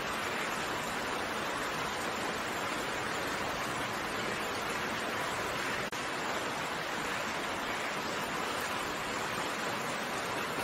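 Steady rain, an even hiss of falling drops, with a momentary dip in level about six seconds in.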